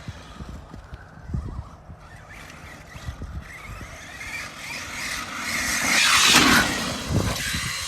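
Brushless electric motor and knobby tires of an Arrma Mojave 6S RC truck running on a dirt track. A louder rush of motor and tire noise comes about six seconds in, with scattered knocks from the truck over the rough ground.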